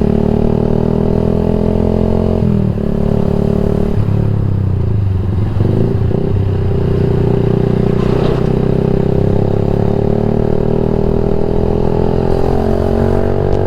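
Yamaha MX King 150's single-cylinder four-stroke engine through a Rob1 TGA aftermarket exhaust, running loud under way. The engine note climbs slowly, with a brief dip in pitch about two and a half seconds in.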